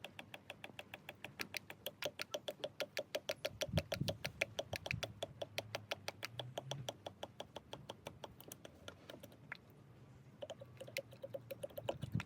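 Rapid, even clicking, about six clicks a second, that slows into scattered clicks near the end.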